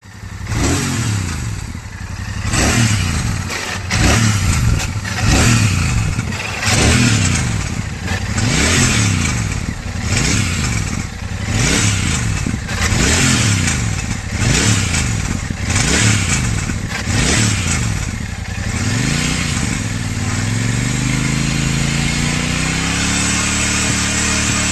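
Royal Enfield Super Meteor 650's parallel-twin engine blipped over and over, about a dozen quick revs rising and falling, then held at a steady, slowly rising speed for the last few seconds. Through it runs the irritating noise of something broken inside the right-side bend pipe (exhaust header).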